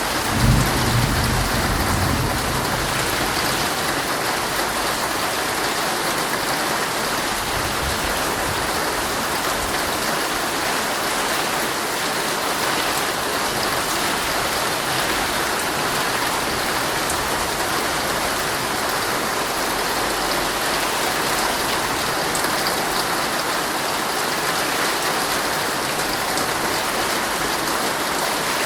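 Heavy rain drumming steadily on a tent's fabric, a dense even patter. A brief low rumble comes in within the first couple of seconds.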